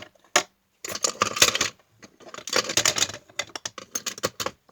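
Small craft tools and supplies clicking and clattering against each other on a tabletop as someone rummages for a tool: two busy bursts of rattling, then scattered single clicks.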